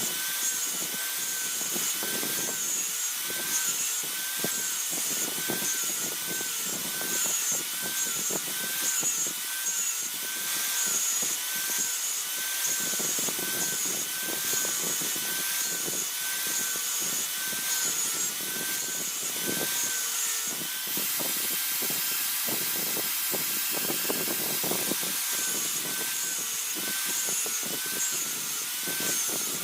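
A steel blade being abraded, with rhythmic scraping strokes about once a second over a steady, wavering tone.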